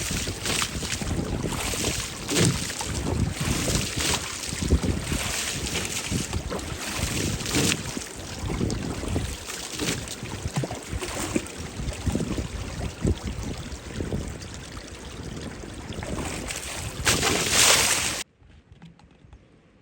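Water spraying and splashing against a car's bodywork, a steady rushing hiss with gusty low rumbles of wind on the microphone, cutting off suddenly near the end.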